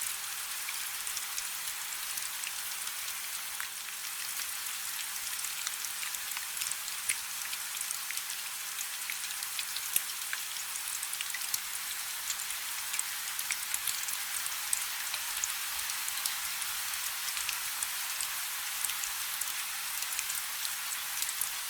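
Steady rain falling on a river's surface: an even hiss dense with many small, sharp drop impacts.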